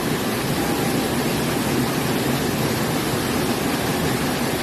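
Water from a stream or waterfall rushing in a loud, steady hiss that does not let up.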